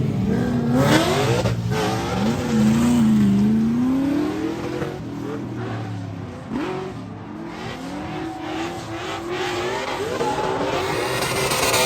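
Car engines revving, their pitch rising and falling again and again as the throttle is worked.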